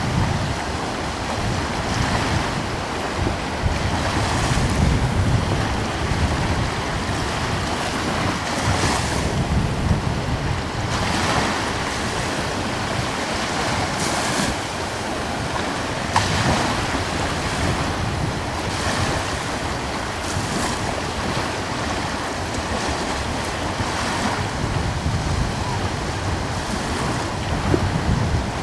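Small ocean waves breaking and washing ashore in a steady rhythm, a hissing swell every few seconds, with a light breeze rumbling on the microphone.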